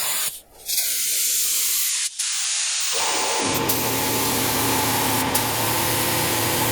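Spray gun hissing as automotive clear coat is sprayed onto a car's body, with a brief pause about half a second in. From about halfway a steady low machine hum runs underneath the hiss.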